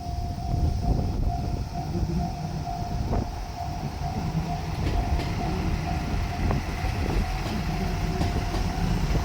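A diesel train running past a Japanese level crossing with a low rumble. The crossing's warning bell rings in a quick, even repeat over it.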